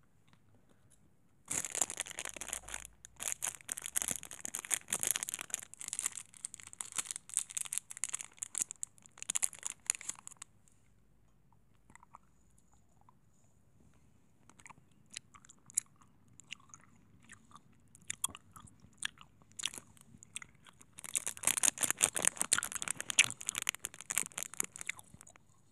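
Close-miked crisp crackling and crunching, in two dense spells with scattered sharp clicks between them.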